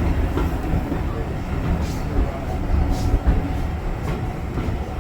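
Steam-hauled passenger carriage running along the track, heard from inside: a steady low rumble and rattle with a few sharp clicks from the wheels.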